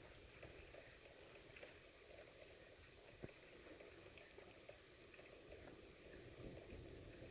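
Near silence: faint steady background noise with a soft tick a little over three seconds in.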